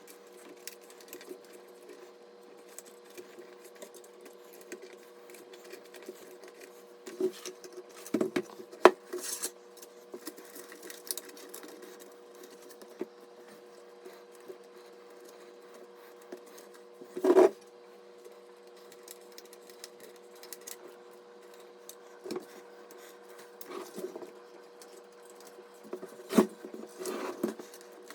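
Scattered clicks, taps and rubbing of PC parts being handled and fitted, with a few louder knocks about eight, seventeen and twenty-six seconds in, over a faint steady hum.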